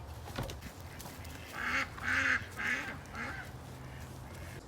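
A farm bird gives four short, harsh calls in quick succession, starting about one and a half seconds in.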